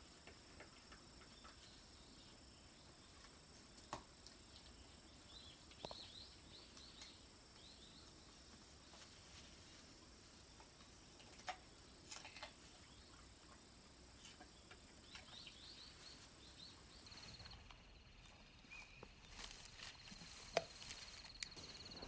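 Near silence: faint outdoor ambience with a steady high insect drone, a few clusters of faint high chirps and occasional soft clicks.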